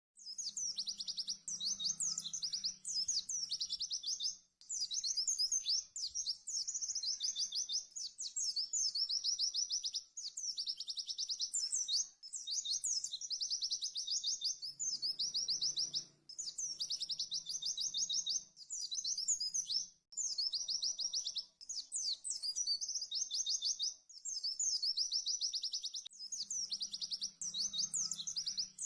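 White-eye (pleci) singing in rapid, high-pitched trilled phrases, each lasting a second or two, with short pauses between them: the fast 'tembakan' song used as a tutor recording for training other pleci.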